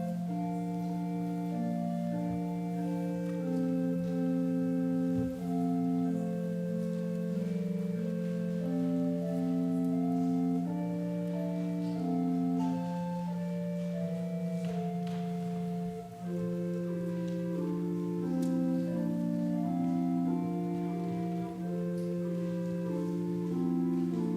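Organ music: a slow melody of held notes over a sustained low note, played as offertory music.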